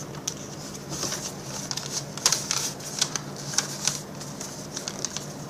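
A sheet of printer paper being folded and creased by hand: irregular crinkles, rustles and sharp little crackles as the fold is pressed down.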